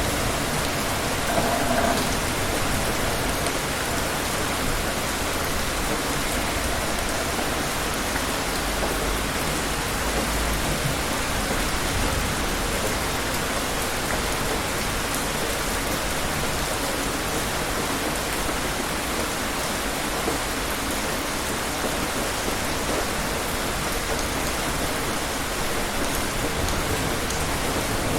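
Steady rain falling, an even hiss with no letup. A low rumble of distant thunder fades out in the first couple of seconds.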